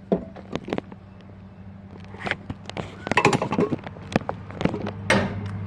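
Scattered light clicks and taps from small objects being handled, over a steady low electrical hum.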